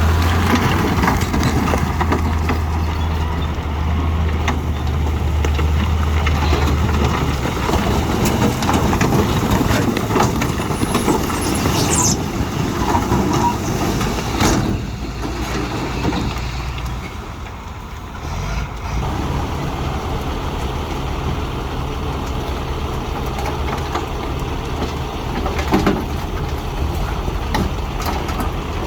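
Heavy diesel earthmoving machinery running and working. A steady low engine drone fills the first several seconds, with scattered short knocks throughout and a brief high squeal about twelve seconds in.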